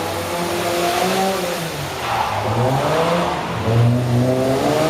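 Two autotest cars' engines accelerating hard from a standing start, their pitch climbing, dipping about two seconds in, then climbing again.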